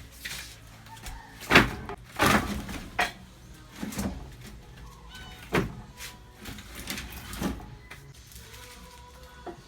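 Irregular knocks and clatter of kitchen utensils and cookware during food preparation, about six sharp strikes, the loudest about a second and a half in.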